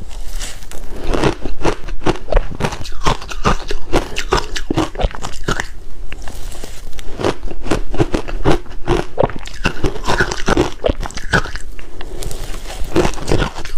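Ice being bitten and chewed, a rapid, irregular string of loud crunches.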